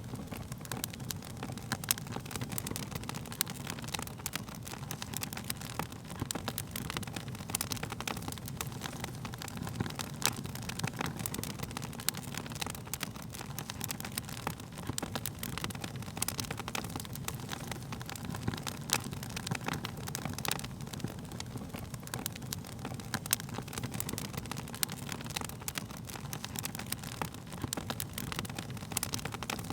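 Wood fire burning: a steady low rumble of flames under frequent sharp crackles and pops of burning wood, a few of them louder than the rest.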